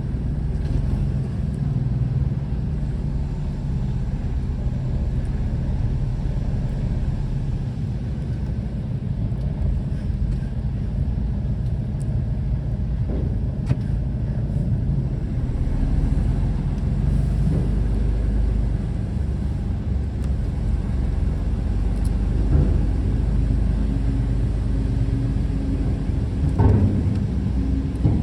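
Semi-truck's diesel engine running at low speed, a steady low rumble, with a few short knocks, the clearest near the end.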